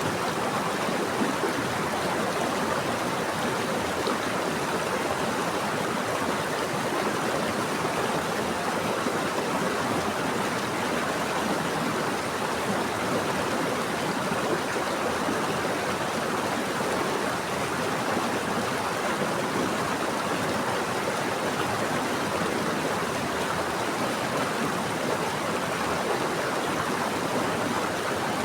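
Water running steadily in a stream or river, an even rushing and burbling with no breaks.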